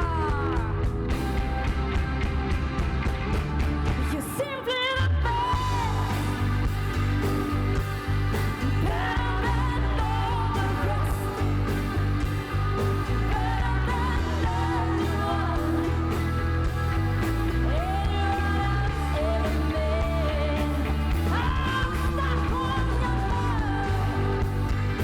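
Live rock band playing, with drums, bass and a singer's voice over them; the band drops out for a moment about four and a half seconds in, then comes back.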